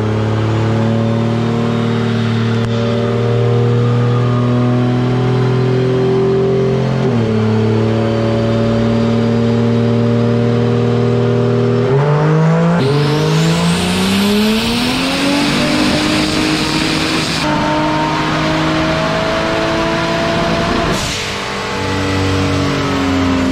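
Turbocharged 2JZ-based inline-six engine on a chassis dyno. It runs steadily with a brief dip in pitch about seven seconds in, then from about twelve seconds in makes a full-throttle pull, its pitch climbing for about nine seconds. A rising turbo whistle and rush of air come in during the climb, and the pull ends in a sharp break as the throttle closes near the end.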